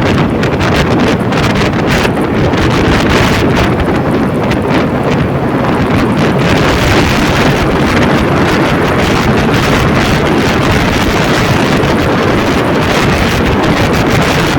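Steady, loud wind rush buffeting the microphone on a moving vehicle in the rain, with no engine note standing out; the hiss grows brighter about halfway through.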